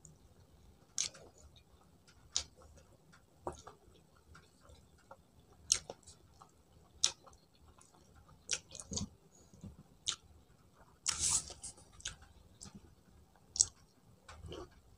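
Mouth sounds of a person eating rice by hand: scattered, irregular wet clicks and smacks of chewing.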